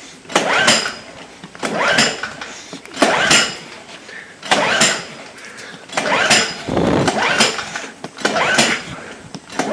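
Fuji Micro 3700ER generator being pull-started by its recoil starter cord: repeated pulls, about one every second and a half, each a brief rasp of the cord and the engine cranking. The engine never catches on any pull, as it is slow to start after sitting unused for about a year.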